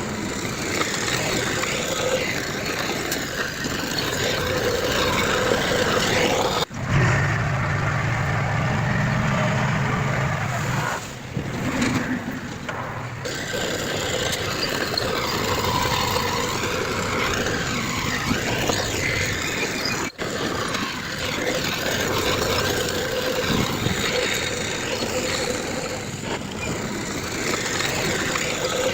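Diesel engines of heavy earthmoving machinery running steadily, with a louder low drone from about 7 to 11 seconds in. The sound drops out for an instant twice, about 7 and 20 seconds in.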